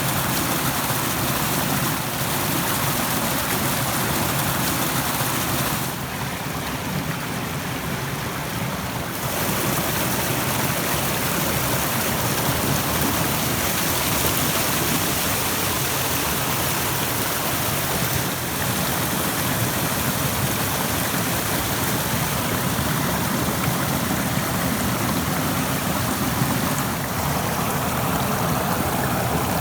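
A stream rushing steadily, a dense, even wash of water sound.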